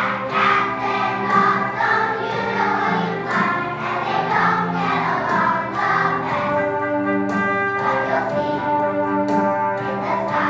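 A group of first-grade children singing a song together, with instrumental accompaniment.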